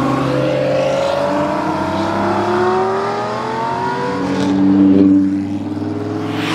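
Supercar engines accelerating: one engine's pitch rises steadily for about three seconds, then the sound is loudest about five seconds in before easing off.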